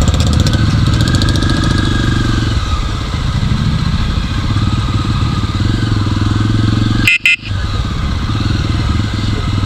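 A Jawa motorcycle's single-cylinder engine running steadily as the bike is ridden through deep water on a flooded road. The sound cuts out briefly about seven seconds in.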